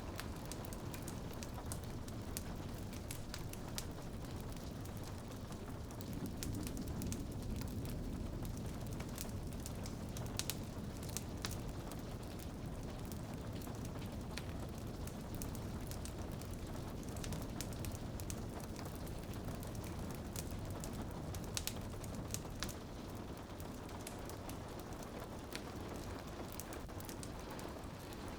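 Wood fire crackling, with many scattered sharp snaps and pops, over a steady wash of rain on a window.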